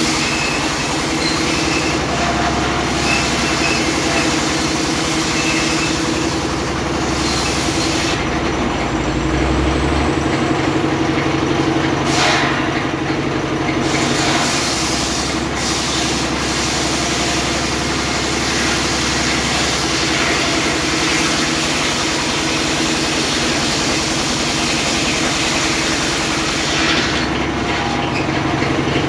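Engine-driven homemade circular saw running steadily, the engine note shifting briefly about a third of the way through.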